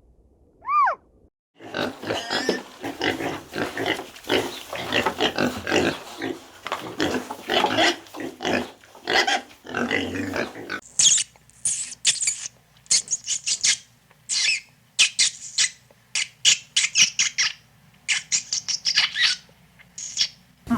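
Farm animal sounds: a short squeak about a second in, then a steady run of rough grunting pulses. After a sudden change there follows a series of short, high, hissy bursts.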